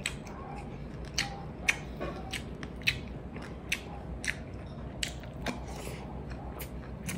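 Close-up eating sounds: wet chewing of raw fish kinilaw and rice, with sharp mouth-smacking clicks about once or twice a second, a couple of them louder in the first few seconds.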